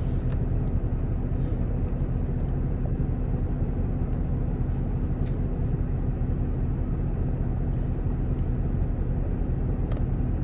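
A truck engine idling steadily, a low even hum with a held tone, heard from inside the cab. A few faint clicks sound over it.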